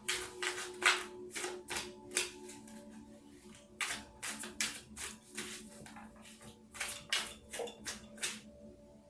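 Tarot cards being shuffled by hand: quick flicking slaps of the cards in three runs, over soft background music.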